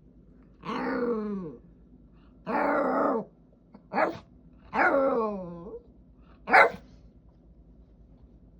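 A Jack Russell terrier making drawn-out whining, grumbling calls, five in all, several sliding down in pitch at the end, with the last a short, sharp bark. These are a dog's play-solicitation noises: she wants to play.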